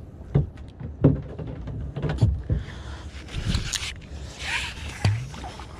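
Irregular knocks and bumps from handling magnet-fishing gear in a kayak, with a short rustling or splashing stretch in the middle.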